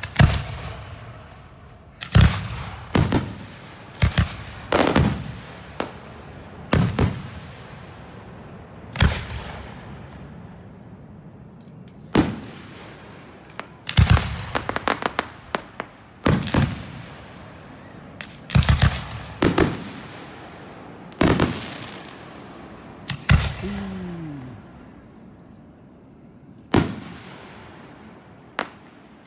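Aerial firework shells bursting one after another, a sharp bang every second or two, some followed by quick runs of crackling pops, each bang trailing off in an echo.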